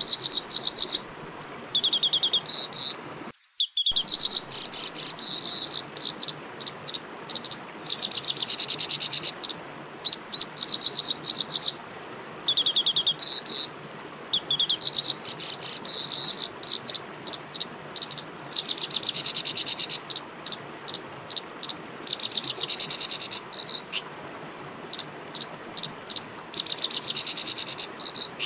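Songbird singing: short, rapid trilled phrases, repeated again and again, over a steady high-pitched hiss. The sound cuts out almost completely for a moment about three and a half seconds in.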